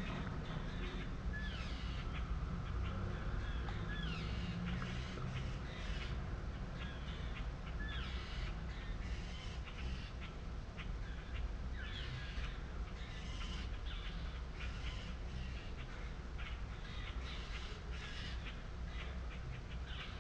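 Several birds giving short, repeated harsh calls throughout, over a steady low background rumble: alarm calls of birds mobbing a large hawk perched in a tree.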